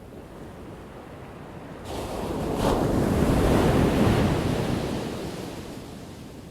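Ocean wave crashing on the shore: a low surf rumble, then a wave breaks suddenly about two seconds in, is loudest for a second or two and washes out, fading away near the end.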